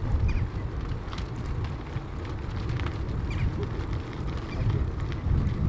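Low, buffeting rumble of wind and ride noise on the microphone of a moving bicycle, with scattered faint ticks.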